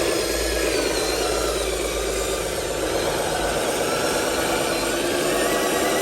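Heavy truck's diesel engine running steadily, its pitch dipping slightly and then rising again.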